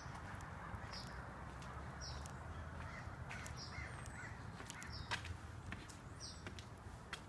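Birds calling: a short high-pitched call repeated about once a second, with a few sharp clicks over a steady low background hum.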